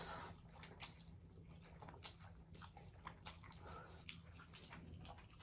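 Two people eating spicy instant noodles: faint, scattered slurping, chewing and small clicking sounds.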